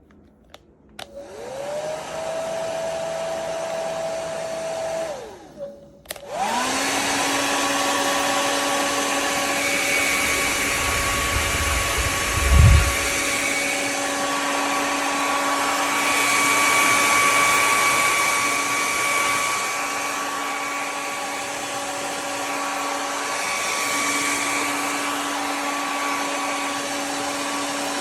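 Revlon compact 1875W hair dryer switched on, its motor spinning up to a steady whine over rushing air, then switched off a few seconds later. It is switched on again at a higher pitch and runs steadily until near the end, with a brief low rumble about halfway through.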